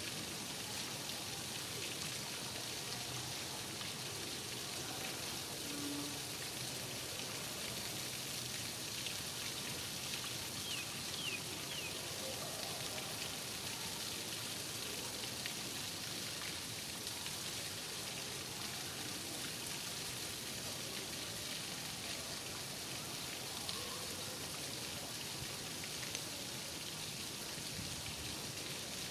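Steady rain falling and pattering on surfaces, an even continuous hiss of many drops.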